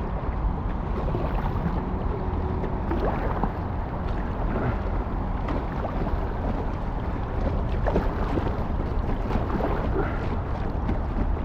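Paddling an inflatable kayak on a river: water splashing and sloshing against the paddle and hull in irregular strokes, over a steady low rumble of wind on the microphone.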